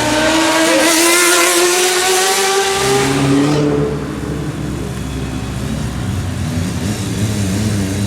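Sport motorcycle engine at high revs, its pitch climbing slowly, loudest in the first three seconds. It then drops back to a lower, wavering engine note at low revs.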